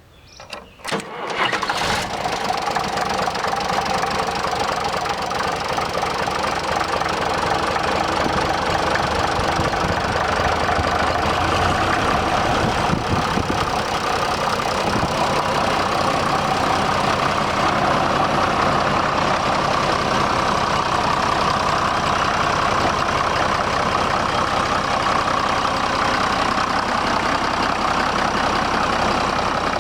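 1965 Case 930 tractor engine cranking and catching in the first two seconds, then running steadily.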